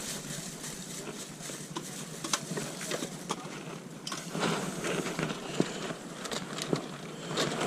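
Open-air car boot sale ambience: scattered clicks and knocks over a steady background hubbub with faint distant voices.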